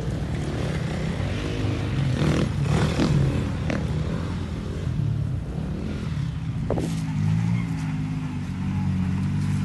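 Jeep Wrangler engines running at crawling speed over rocks, with a few engine sounds that rise and fall about two to three seconds in.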